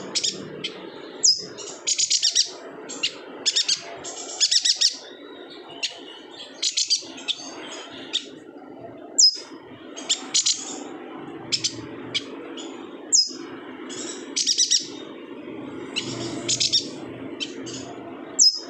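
Yuhina calling in quick bursts of high, rapid chirping notes, broken by a few short falling whistles, over a steady low background hum.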